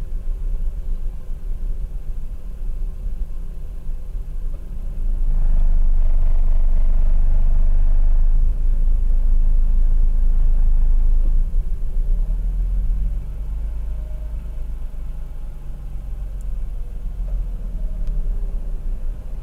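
Mazda RX-8's twin-rotor Renesis rotary engine idling roughly with a steady rumble. Its revs rise for about six seconds in the middle, louder and higher, then settle back to the rough idle.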